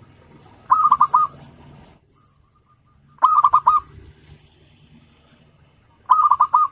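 Zebra dove (perkutut) cooing: three phrases, each a quick run of about five notes, roughly two and a half to three seconds apart.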